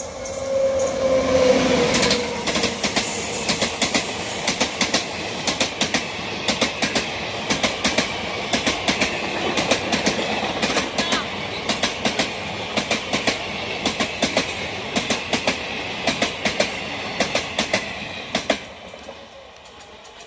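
Indian Railways passenger express hauled by a WAP-7 electric locomotive passing at speed: a falling tone as the locomotive goes by, then a steady rumble with rapid bunches of clickety-clack from the coach wheels over the rail joints. The clicking stops about eighteen and a half seconds in and the rumble fades as the last coach moves away.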